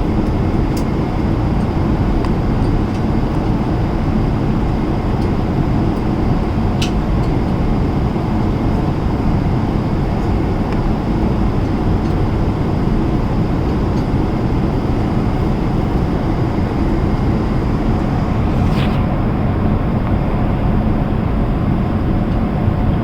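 Steady cabin noise of a Boeing 777-300ER airliner in flight: the even rush of airflow and engine noise through the cabin, with a few faint clicks.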